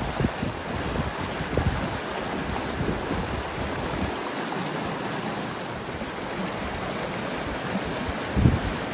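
Steady rush of river water, with wind buffeting the microphone in low rumbling gusts, the strongest near the end.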